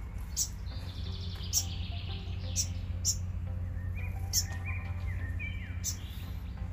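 Small birds calling: several sharp high chips, a buzzy chatter about a second in, and short falling chirps in the second half, over a steady low rumble of wind on the microphone.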